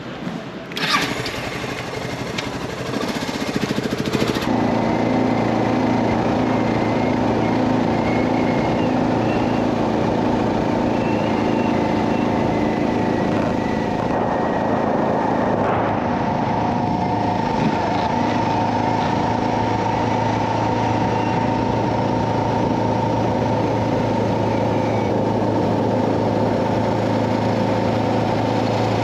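Suzuki DR650's single-cylinder four-stroke engine running at a steady pitch, getting louder and settling about four seconds in.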